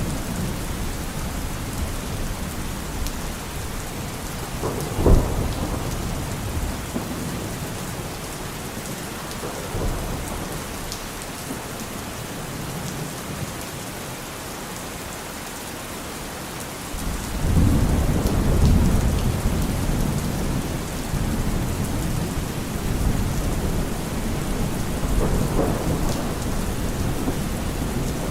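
Steady rain with thunder: a sharp thunderclap about five seconds in, then a long low rumble rolling in a little past the middle.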